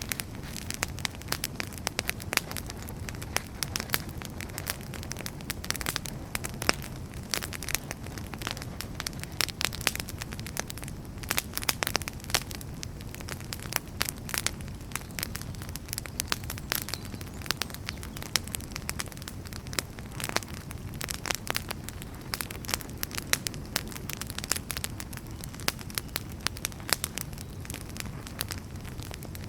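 Wood fire burning in a fireplace: frequent sharp, irregular crackles and pops over a steady low rumble of flames.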